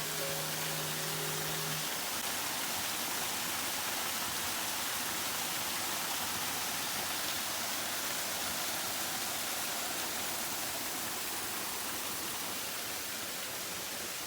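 Steady rushing of falling water from a waterfall or stream. A little background music ends about two seconds in.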